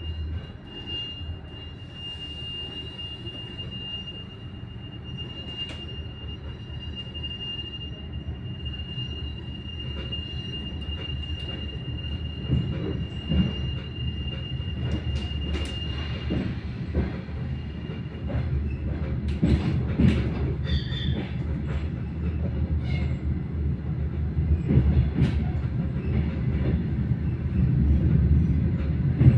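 Passenger train heard from inside the carriage as it pulls out and gathers speed: a steady low rumble with a thin, high steady whine over roughly the first half. The running noise grows louder, with sharp wheel knocks and clatter over rail joints and points coming more often in the second half.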